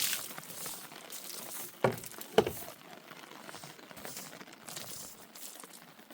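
Irregular crackling and rustling, with two sharp knocks close together about two seconds in.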